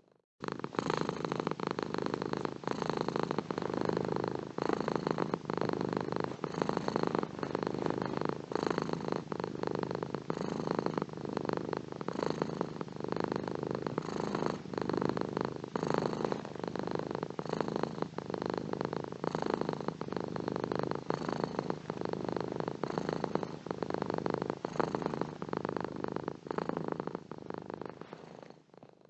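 A domestic cat purring steadily at close range: a continuous, fast, rattling purr. It fades out briefly at the very end.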